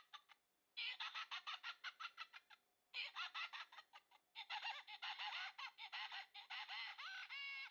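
Birds chirping: fast runs of short chirps in bursts, broken by two short pauses, with a few longer pitched chirps near the end.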